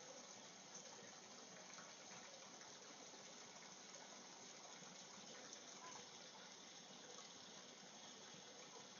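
Faint, steady rush of a waterfall: an even wash of falling water that does not change.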